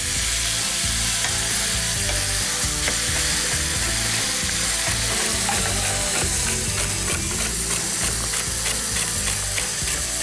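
Wild boar pieces and garlic sizzling in hot oil in a pot, stirred with a wooden spoon. From about six seconds in, a chef's knife chops celery on a plastic cutting board in quick regular strokes, about three or four a second, over the frying.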